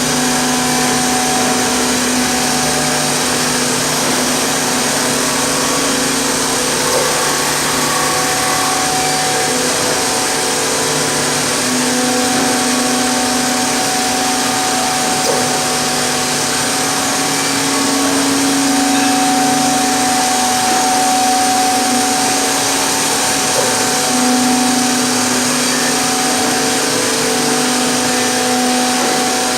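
Ten-head CNC mortising machine running, its motors giving a loud, steady hiss and hum. The hum's tones change every few seconds.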